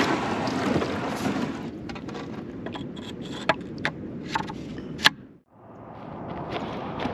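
Steady rush of water and wind around a kayak being paddled, with a few sharp clicks in the second half. The sound drops out briefly about five and a half seconds in, then the water noise returns.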